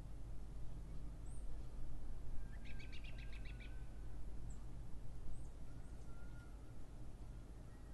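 Bird chirping: a quick trill of about eight notes near the middle, with short high chirps before and after it, over a steady low hum.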